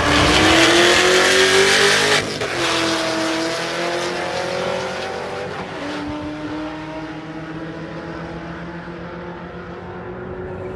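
Drag racing car accelerating hard down the strip at full throttle. Its engine pitch climbs and drops back at gear changes about two and six seconds in, and the sound fades as the car pulls away.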